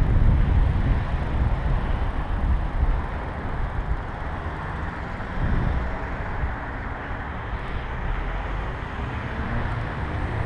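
Wind rumbling over the microphone while riding a bicycle, with a steady rushing rolling noise. It is a little louder in the first couple of seconds, then settles.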